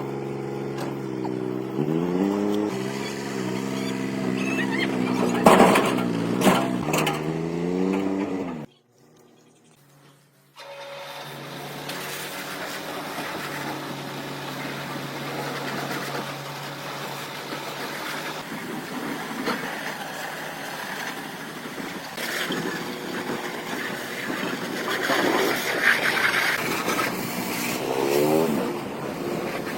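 A motor running with its speed rising and falling, cutting off after about eight seconds; after a short gap a steadier motor sound runs on, its speed changing again near the end.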